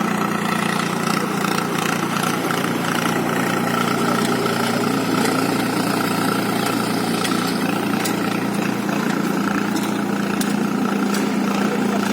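Tractor engine running steadily at a constant speed, with no revving.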